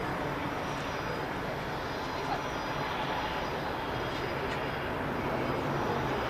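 Airliner engines running, a steady, even noise of a passenger aircraft at the airport.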